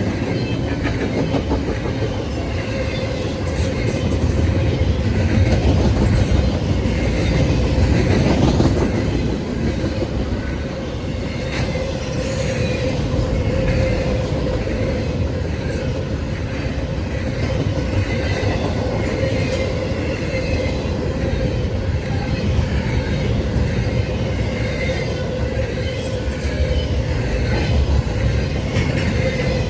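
Norfolk Southern freight train rolling past, its wheels clicking over the rail joints and a steady squealing tone running under the rumble.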